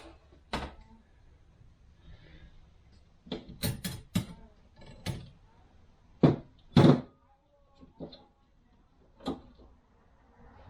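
42RE transmission clutch discs and steel plates clacking as they are handled and set down on a bench: a series of separate sharp knocks, the two loudest a little past the middle.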